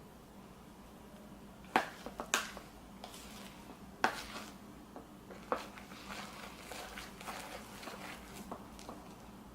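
Handling soft slime: a few sharp clicks and smacks, then a run of small crackles and pops as the slime is squeezed and worked.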